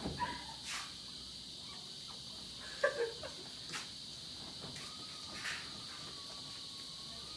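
Crickets chirring steadily, with a few brief knocks and a faint thin wavering tone in the second half.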